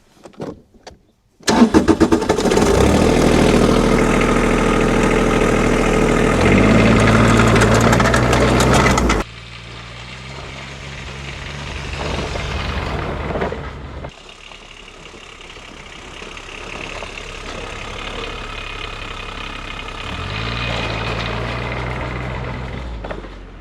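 Small diesel engine of a diesel-swapped Power Wheels ride-on truck, fitted with a muffler, running loud and close for several seconds, then rising in pitch as it revs. About nine seconds in the sound drops abruptly to a quieter engine that swells twice as it revs up while driving.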